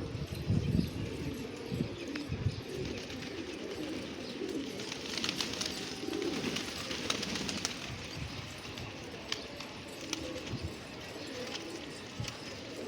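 Pigeons cooing over and over in low warbling calls, with a few low thumps in the first few seconds.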